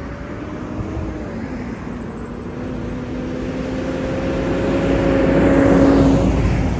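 A large vehicle's engine running, with a steady low rumble and a faint hum that grows louder toward the end.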